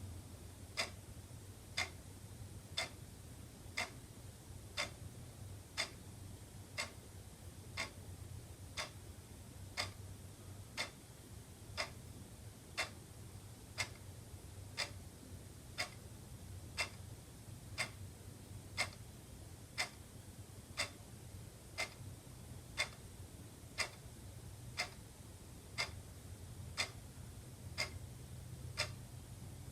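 Wall clock ticking steadily once a second, each tick a short sharp click, over a faint low hum.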